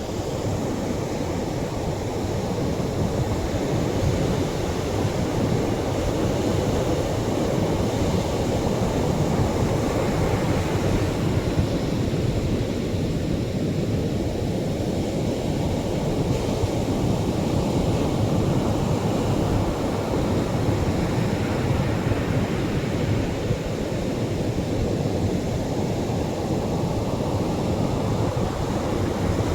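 Gentle Atlantic surf washing onto a beach: a steady low rush of waves that swells slowly, with a brighter hiss building about ten seconds in and again near the end.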